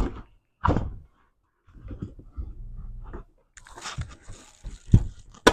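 Plastic car door trim panel being handled and worked under the window's rubber seal: scattered knocks and rubbing scrapes, then a sharp snap near the end.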